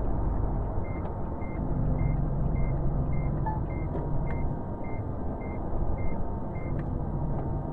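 A short, high electronic beep repeating about twice a second over the steady low rumble of vehicle engine and road noise, stopping near the end.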